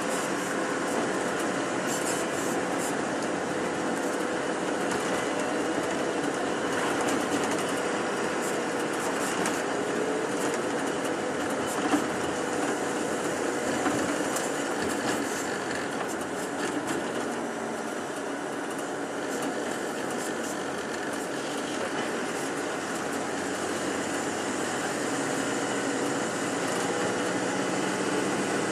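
Interior noise of a moving tour bus: the engine and tyres running steadily, with scattered small rattles and clicks and one louder knock partway through.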